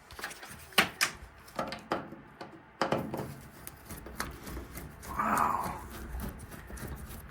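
Scattered clicks and knocks of metal fittings and tools being handled while old piping is taken apart.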